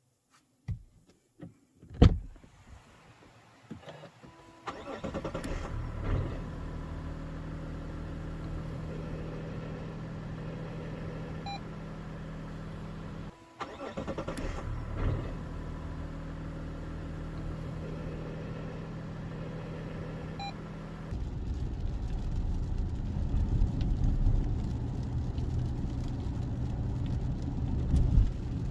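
Mazda CX-60's 3.3-litre inline-six diesel started after a few clicks, then idling steadily. It drops out briefly about halfway, starts again, and about two-thirds of the way through turns louder and rougher. This after-start running is where the owner hears an abnormal noise that he suspects has appeared since the recall.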